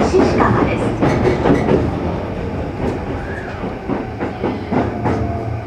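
Sanyo Electric Railway 6000 series electric train running on the rails, heard from inside a passenger car: a steady rumble with repeated wheel clacks over rail joints. The sound grows gradually quieter as the train slows for the next station.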